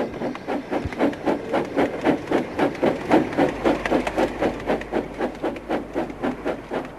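Steam locomotive chuffing at a steady pace, about four to five puffs a second.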